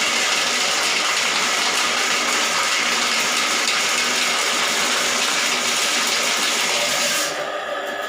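Water rushing steadily in a toilet, cutting off suddenly about seven seconds in.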